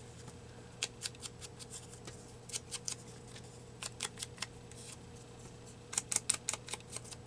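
Paper pieces being handled and shuffled: four quick clusters of light, crisp ticks and rustles, over a faint steady hum.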